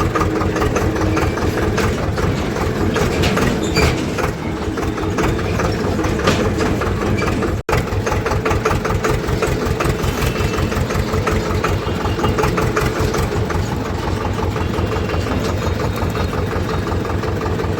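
Swaraj tractor's diesel engine running with a steady, rapid beat of firing pulses. The sound drops out for an instant about eight seconds in.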